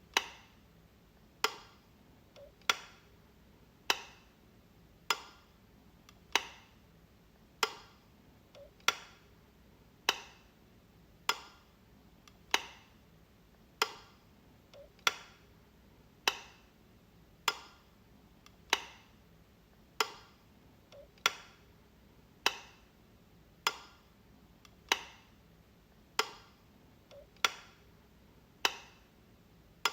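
Light switch being clicked, one sharp snap about every second and a quarter, with a faint softer tick just before some of them.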